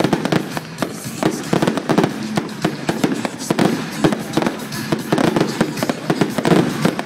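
Fireworks display shells bursting in rapid succession, a dense run of bangs and crackles several times a second, with music playing underneath.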